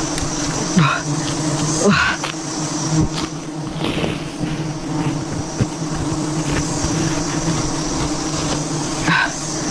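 A swarm of wild honeybees buzzing around their comb as it is harvested: a loud, steady, droning hum, broken by a few short sharp sounds about one, two and nine seconds in.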